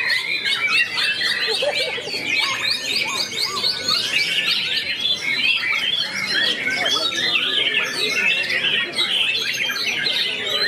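White-rumped shama (murai batu) singing a fast, unbroken stream of whistled and chattering notes.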